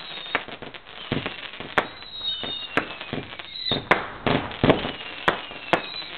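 Fireworks going off: a run of sharp bangs and crackles, about one a second, mixed with high whistles that slide down in pitch.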